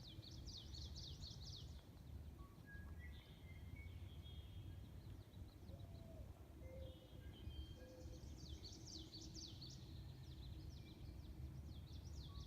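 Songbirds singing faintly: quick runs of high chirps in a burst near the start and again from about eight seconds in, with short whistled notes between, over a low steady background rumble.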